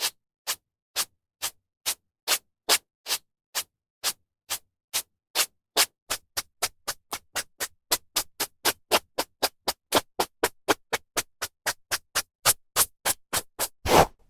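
Hairbrush drawn through hair in short, quick, even strokes with brief silences between. The strokes come about three a second at first and quicken to about five a second from around six seconds in.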